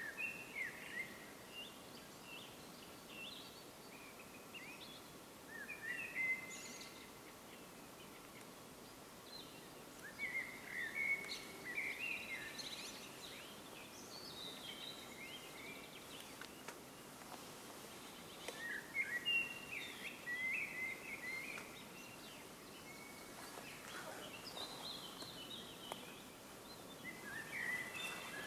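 Songbirds singing: short phrases of quick chirping notes every few seconds, over a faint steady background hiss.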